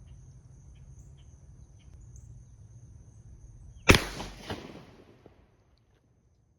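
A single pistol shot of a .357 SIG 125-grain HST load from a 4.5-inch barrel, a sharp loud crack about four seconds in, followed about half a second later by a fainter second crack and a fading echo.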